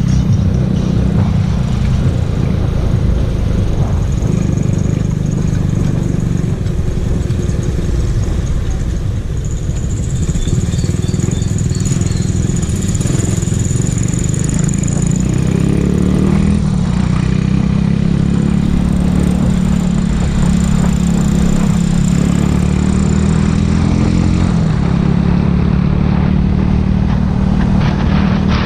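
Motorcycle engine running steadily under way, with a heavy low rumble; the engine note climbs a little past the middle.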